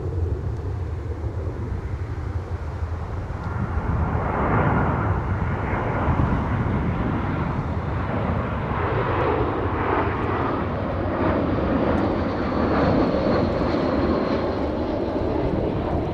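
Airbus A320-232 jet airliner on its arrival approach, its IAE V2500 turbofan engines giving a steady rushing jet noise that grows louder about four seconds in. A faint high fan whine shows near the end.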